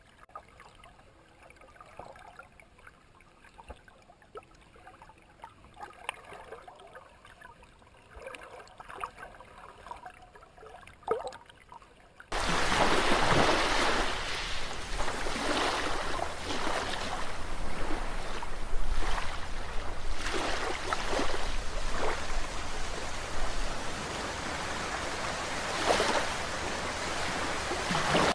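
Moving water, faint and soft at first, then about twelve seconds in an abrupt switch to a loud, steady rushing of water with a low rumble beneath it.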